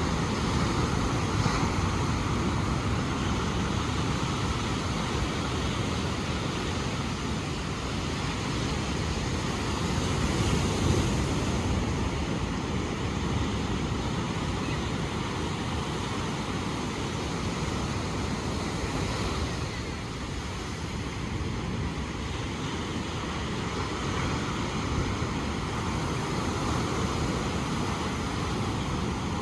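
Ocean surf washing in: a steady rushing noise, heaviest in the low rumble, that swells a little about ten seconds in.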